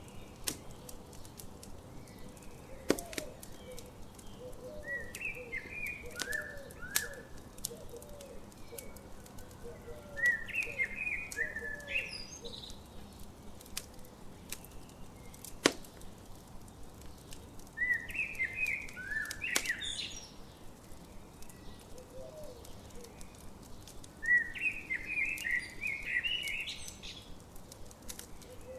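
Campfire crackling steadily, with a few sharp pops, while songbirds sing short phrases of quick chirps about every six or seven seconds.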